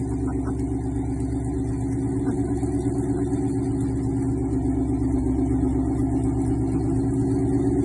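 2016 Ford Mustang GT's 5.0 V8 idling steadily through Kooks headers and a Corsa Extreme cat-back exhaust.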